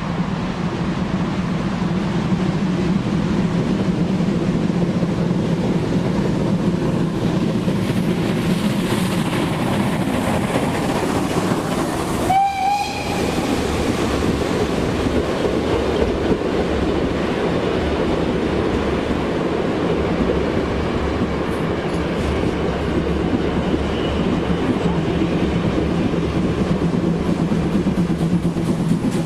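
A train running on the rails with a steady rumble, and a brief high-pitched toot from the train about halfway through.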